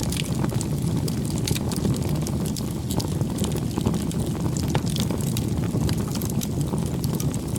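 Wood fire burning, with a steady low rumble of flames and frequent small crackles and pops from the burning wood.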